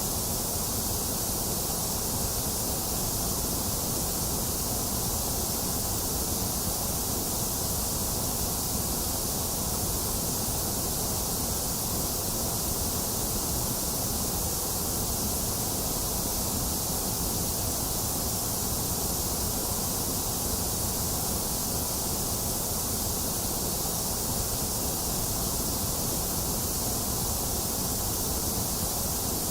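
Box fan running together with steady rain: an even, unchanging hiss with no separate drops or thunder standing out.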